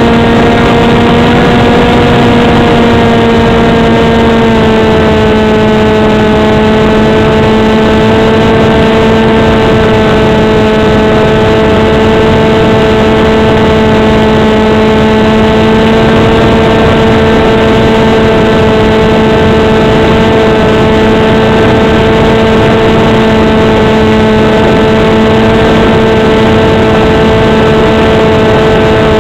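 Motor and propeller of an RC foam flying wing, heard loud and close from the plane's onboard camera. It runs as a steady buzzing drone over a rushing noise from wind and prop wash. The pitch drops slightly about four seconds in as the throttle eases, then holds steady.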